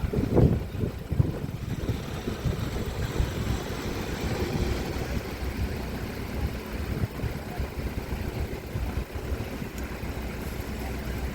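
Road vehicles' engines idling and running: a steady traffic rumble, with a few low thuds in the first second or so.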